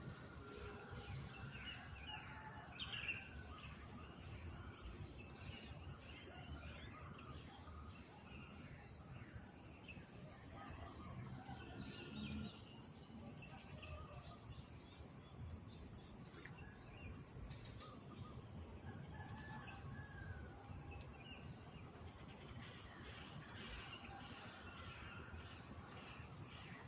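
Village morning ambience: birds chirping and calling on and off, over a steady high drone of insects and a low background rumble.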